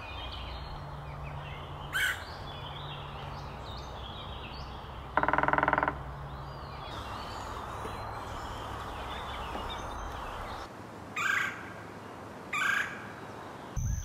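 Wild birds calling over a steady outdoor background: a few short, sharp high calls and one loud, nasal call lasting just under a second about five seconds in.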